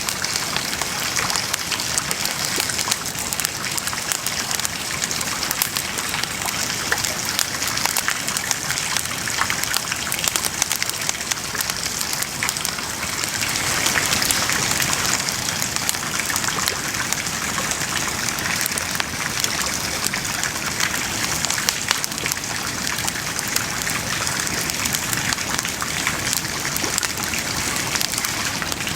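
Wood bonfire burning: a steady hiss of flame with dense, continuous crackling of the burning wood.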